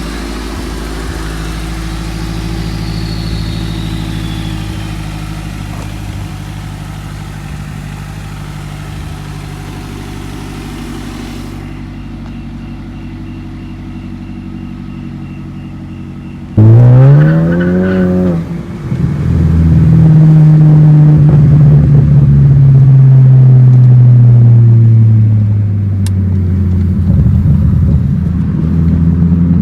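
A car engine running steadily, then a little past halfway it revs hard with a quickly rising pitch and holds a loud drone that slowly falls before easing off near the end.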